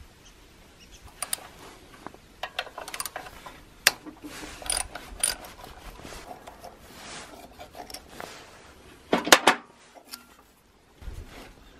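Scattered metal clicks and short rattles of tools and small engine parts being handled, with a louder clatter about nine seconds in.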